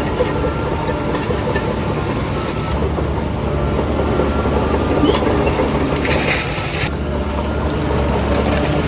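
Shantui DH17C3 crawler bulldozer's diesel engine running steadily under load, with the steel tracks clanking and rattling. A short hiss comes about six seconds in.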